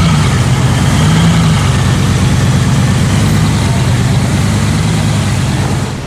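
Bugatti Veyron Grand Sport's W16 engine running at low revs as the car creeps up a transporter ramp: a low, steady rumble with slight rises in pitch near the start and again about a second in, dropping a little in level near the end.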